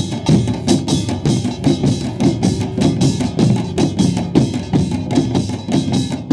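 Korean pungmul folk percussion playing a fast, dense rhythm: kkwaenggwari small gongs clanging over buk barrel drums.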